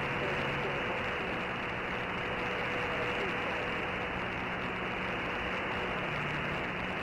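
CB radio receiver static: a steady hiss of band noise with a few faint steady whistling tones, as a distant skip station's signal fades out.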